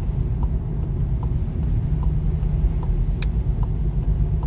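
Volkswagen GTI's indicator clicking steadily, about two and a half ticks a second, over the steady low rumble of the engine and tyres inside the cabin.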